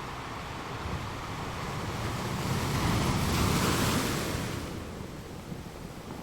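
Ocean waves crashing: one wave's surf rush swells to a peak about three and a half seconds in and then washes away over a steady low wash of water.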